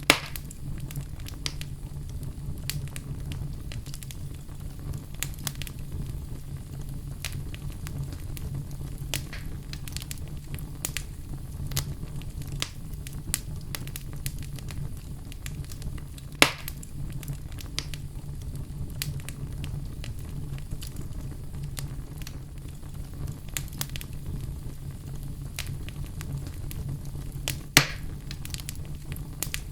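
Wood fire crackling steadily in a fireplace: a low continuous rumble of flames with scattered sharp snaps, three of them louder pops, near the start, about halfway through and near the end.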